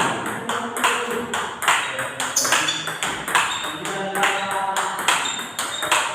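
Table tennis rally: a celluloid ball being struck by a racket with Hurricane rubber on a Viscaria Super ALC blade and bouncing on the table, sharp pocks about twice a second, during forehand spin strokes.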